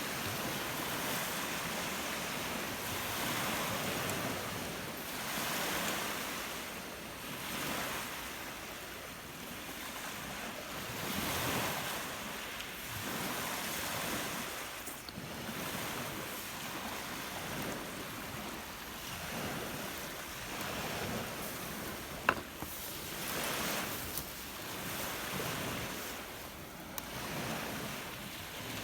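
Lake waves breaking on the shore, a fresh surge every couple of seconds, with wind. One sharp click about three-quarters of the way through.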